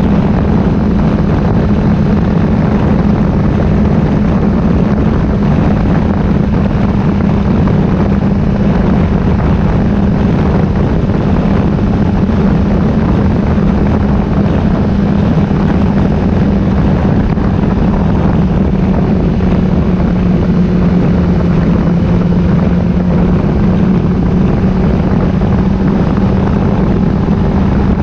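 Motorcycle engine running steadily while riding, its note holding near one pitch and dipping slightly about two-thirds of the way through, over a continuous rush of noise.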